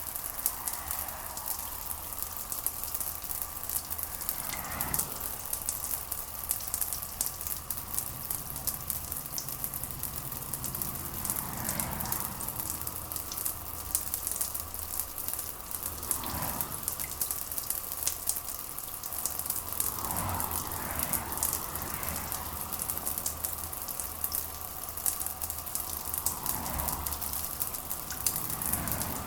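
Steady rain pattering densely on a surface, with a continuous crackle and a low steady rumble beneath, and soft swells every few seconds.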